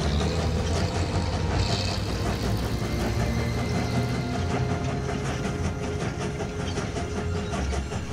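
Train running, a steady low engine rumble with rail noise.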